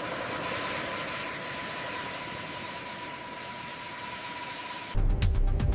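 Steady mechanical hum and hiss with a faint constant whine, like machinery running. It cuts off about five seconds in, when music with a heavy bass beat starts.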